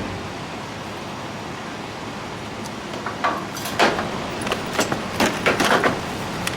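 A steady background hum with a quick run of light knocks and clicks in the second half.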